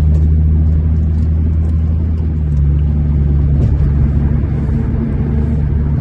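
Car engine running at steady revs, a continuous low drone with rumble.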